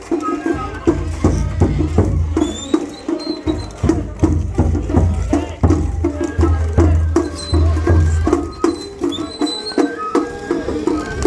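Japanese festival float music (matsuri-bayashi): drums struck in a quick, steady rhythm with deep low beats, and a high melody in short phrases over them.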